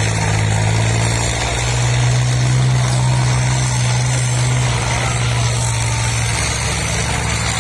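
Tractor engine running steadily with a low, even note that swells slightly for a couple of seconds and then settles back.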